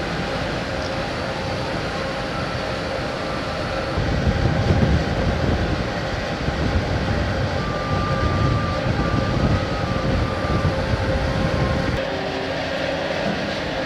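Steady mechanical rumble and hum of a ferry's machinery, with a heavier low rumble for most of the middle stretch.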